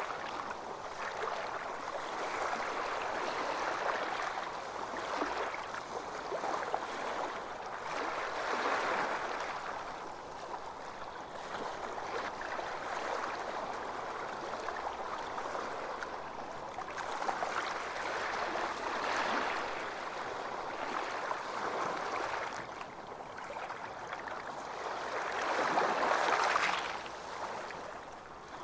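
Ocean waves breaking and washing onto a sandy beach, a steady wash of surf that swells and eases every few seconds, with the strongest surge near the end.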